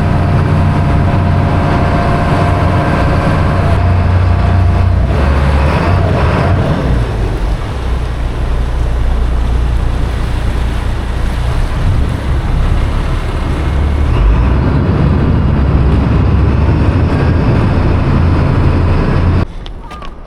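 Diesel engine of a small harbour ferry boat running steadily, a deep hum with a wash of water and wind over it. It cuts off abruptly near the end.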